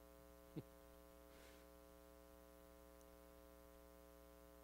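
Near silence with a steady electrical hum, and one brief faint blip about half a second in.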